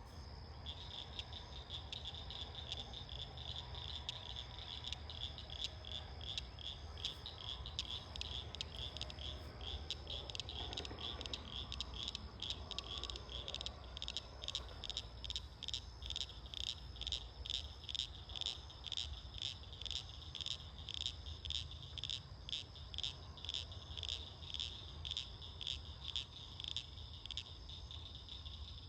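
Night chorus of frogs and insects: a high chirp repeated quickly and evenly, about three times a second, over a steady high-pitched trill and a faint low rumble. The chirping grows louder toward the middle and eases off near the end.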